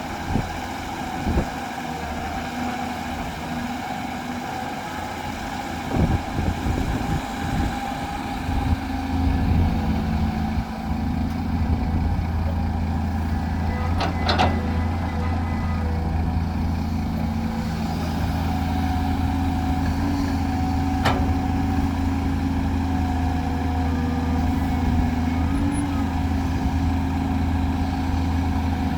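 Heavy diesel earthmoving machinery running steadily, getting louder about nine seconds in, with a few sharp knocks.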